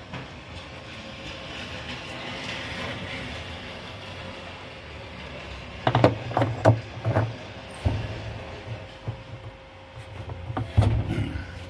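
Metal knocks and clanks from a gear puller being fitted onto a washing machine's drive mechanism: a quick run of about five sharp knocks about halfway through, a single knock shortly after, and a few more near the end.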